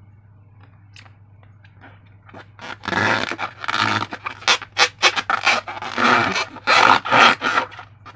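A few faint clicks, then from about three seconds in a quick run of short squishing, squelching sounds, two to three a second, as slime is squeezed and worked by hand.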